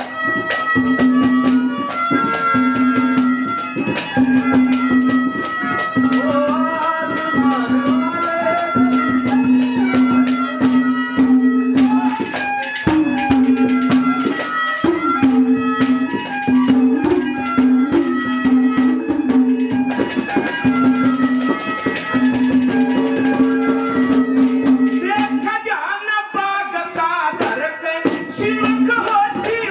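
Instrumental Haryanvi folk music: a hand drum plays a steady rhythm under a melody line, over a low note that keeps returning.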